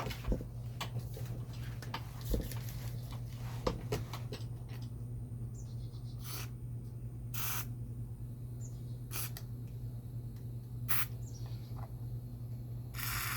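Short hissing squirts of WD-40 aerosol spray, five of them a second or two apart, the last the longest, aimed at a rusted-in Allen bolt. A steady low hum runs underneath.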